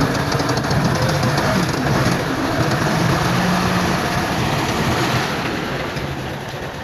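Heavy diesel earthmoving machinery running, a low engine drone with rattling and clanking over it, easing off a little near the end.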